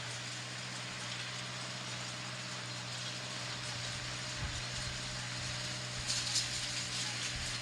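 Tractor engine running steadily at working speed, with mechanical rattling from the farm machinery, a burst of it about six seconds in, and some low rumbles in the second half.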